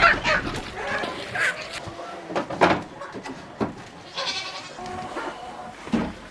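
Goats bleating, several separate calls.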